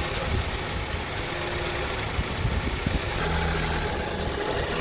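2002 Honda CR-V's 2.4-litre four-cylinder engine idling roughly, with a steadier low hum coming in about three seconds in. The rough, hunting idle persists after new spark plugs, MAP sensor and purge solenoid, and its cause is still unfound.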